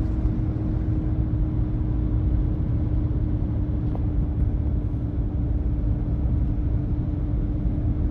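A motor vehicle running, a steady low rumble with a constant hum, heard from inside the vehicle.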